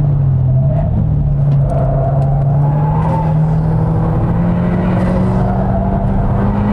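Mk2 SEAT Leon Cupra's turbocharged 2.0-litre four-cylinder engine pulling under acceleration on track, its pitch dipping briefly near the start and then climbing steadily.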